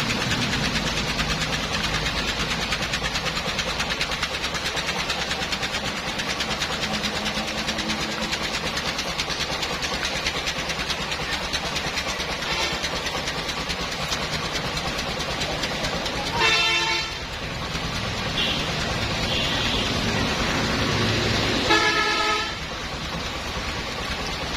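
A motor vehicle engine running steadily, with two short horn honks about five seconds apart in the second half.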